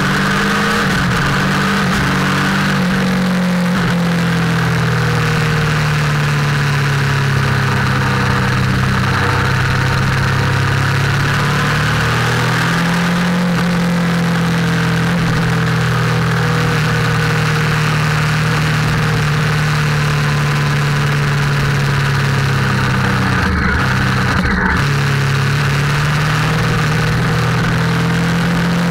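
Motorcycle engine running on the move, its note rising and falling gently with speed, with wind rushing over the microphone. About three-quarters of the way through, the engine note briefly dips twice.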